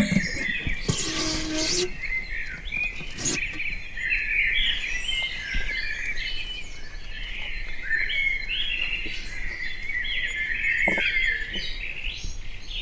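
Several birds chirping and singing at once, a dense, continuous chorus of short high chirps. A brief rustling noise sounds about a second in.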